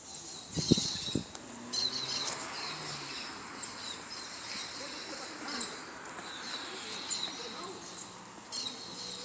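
Several birds chirping and calling in short, repeated notes from the trees, over a steady high insect drone. There are a few low knocks about a second in.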